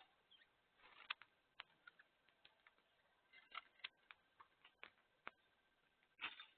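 Faint, irregular clicks and taps of birds at a feeder, with short silences in between.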